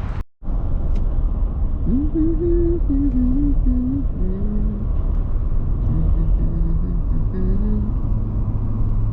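Car running on the road, a steady low rumble, with a slow, low melody of held notes over it.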